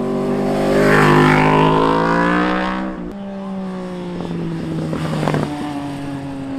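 Street motorcycle engine accelerating hard, its pitch rising and loudest about a second in, then dropping sharply about three seconds in. A steadier, lower engine note follows.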